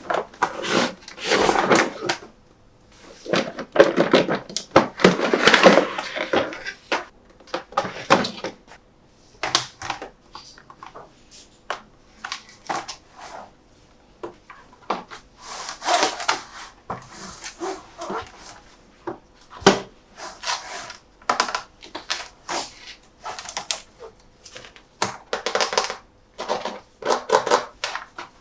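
Toy packaging and a plastic toy truck being handled: irregular rustling in the first few seconds, then many scattered clicks and taps.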